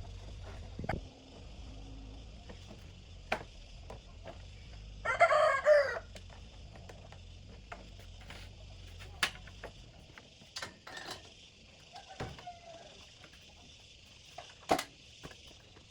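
A rooster crowing once, about a second long, some five seconds in. Scattered light clicks and knocks sound around it over a steady high hiss.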